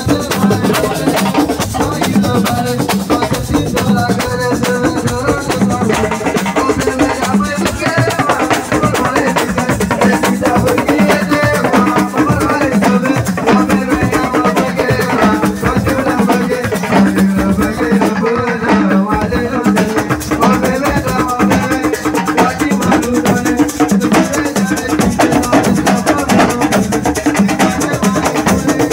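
Assiko band music: dense, fast drumming and percussion that plays on without a break.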